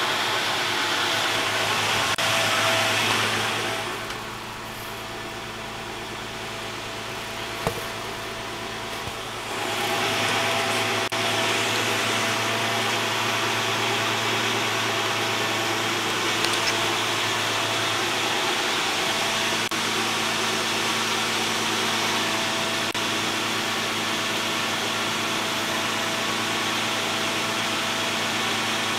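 2004 Nissan Xterra's 3.3-litre V6 idling steadily under a rushing hiss. The sound drops and the hiss thins for about five seconds a few seconds in, then comes back.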